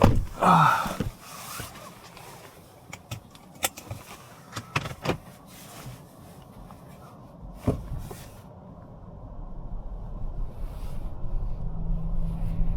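Cabin of a stopped Toyota RAV4 Prime: a loud brief sound right at the start, then a few sharp clicks and knocks, then a low rumble building steadily over the last few seconds as the car moves off.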